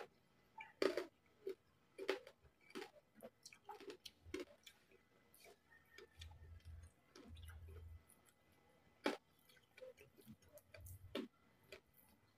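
Close-miked eating of crispy pata, deep-fried pork knuckle, with rice: irregular crunchy clicks and wet mouth sounds of chewing, and fingers pulling at the meat. A few short low rumbles come in the middle.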